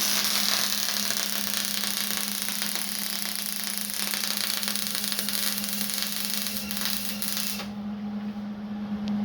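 Wire-feed welder arc crackling steadily for about seven and a half seconds, then cutting off as the trigger is released, over a steady low hum.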